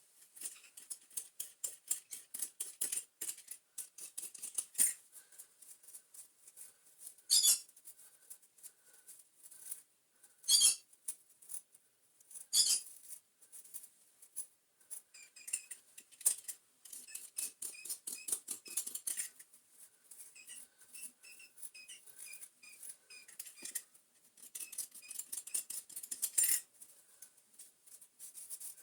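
Utility knife blade cutting and scraping wound-in hair off the bristle brush roll of a Miele TurboTech turbo brush: quick, irregular scratchy strokes, with a few louder rasping cuts.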